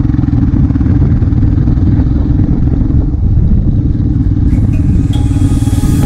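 Royal Enfield Himalayan single-cylinder motorcycle engine running, a loud, low, fast-pulsing exhaust note. Music starts over it near the end.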